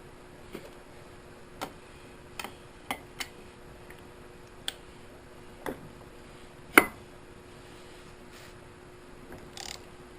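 Scattered metal clicks and knocks of hand tools being handled on an engine being torn down, about nine at uneven spacing, the loudest about seven seconds in, with a short scuffing sound near the end. A faint steady hum runs underneath.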